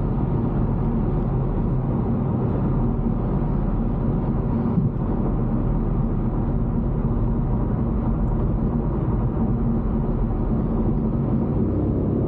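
Car engine and road noise heard inside the cabin while driving at steady speed: a continuous low rumble with a faint steady hum.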